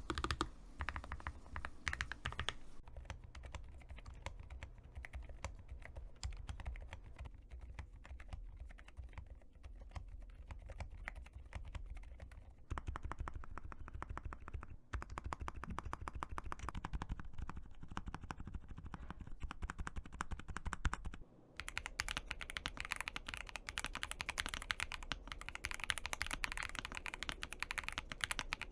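Typing on mechanical keyboards in sound tests. For the first few seconds it is a Lofree Flow. From about 3 s in comes the duller, quieter typing of an Epomaker RT100 with silent switches. After a short break about 21 s in, the clicks of a Womier S-K71 are brighter and sharper.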